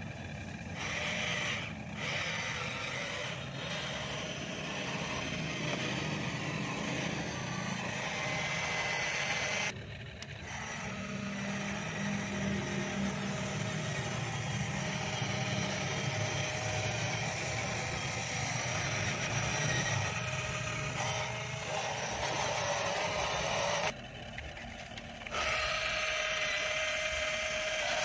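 Radio-controlled long-reach excavator model running its motors with a steady whine while it digs, briefly letting up about ten seconds in and again near the end.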